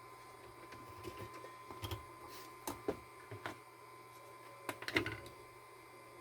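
A scattering of short clicks and knocks, the loudest about three seconds in and again near the end, over a faint steady high tone and a low hum.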